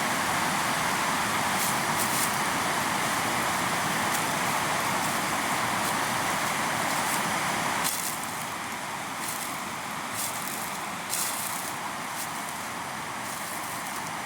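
River water rushing steadily, with small splashes and crackles on top; it gets somewhat quieter about eight seconds in.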